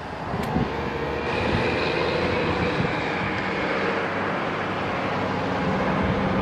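A steady engine-like drone over a constant noise, with a faint low hum held at one pitch.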